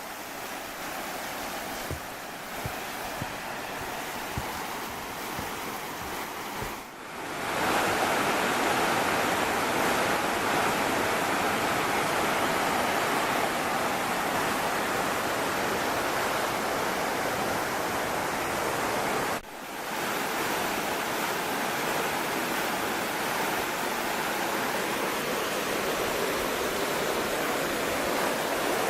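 Swollen waterfall rushing steadily, fed by days of rain. A few light ticks sound over quieter rushing water at first. About seven seconds in, after a brief break, the falling water is much louder, with another short break about twenty seconds in.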